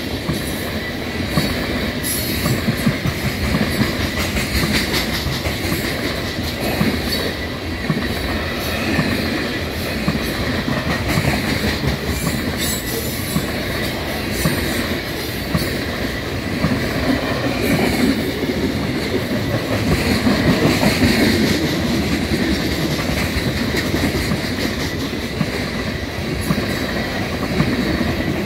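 Loaded coal cars of a long freight train rolling past at close range: a steady rumble of steel wheels on rail, with a continual clickety-clack as the wheels pass over rail joints.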